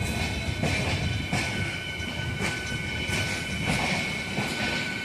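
Passenger train running slowly on the rails, heard from an open coach window: a steady rumble with irregular clacks about once a second and a steady high-pitched squeal.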